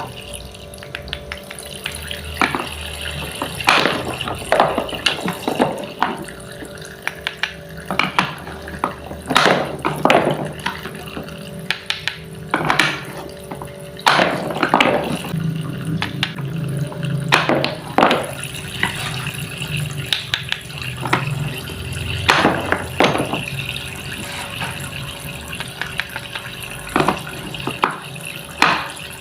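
Water running and splashing, with irregular sharp clicks and knocks of small kitchen items.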